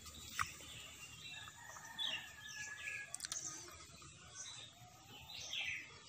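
Birds chirping faintly, with a few sharp clicks, the loudest about half a second in.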